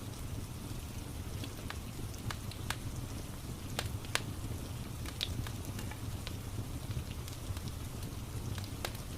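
Wood fire crackling, with irregular sharp pops and snaps over a steady low rumble, mixed with a soft steady rain hiss.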